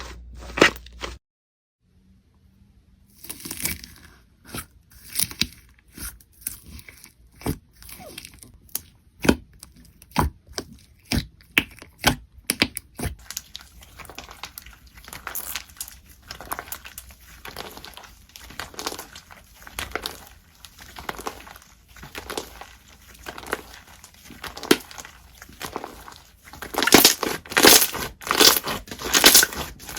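Slime being squeezed and stretched by hand, giving an irregular run of sharp sticky clicks and crackles. The crackles come thickest and loudest near the end. There is a brief silent break about a second in.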